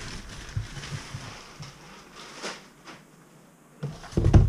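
Cardboard box and packaging being handled: soft rustling, a sharp tap about two and a half seconds in, then a few low knocks near the end.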